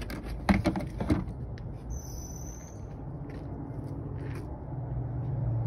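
Low, steady running of an idling car engine, with a few short knocks in the first second and a brief high-pitched squeak about two seconds in.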